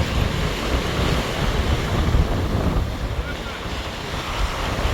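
Rough sea surf breaking and washing ashore in a squally wind, with strong gusts buffeting the microphone in a deep rumble.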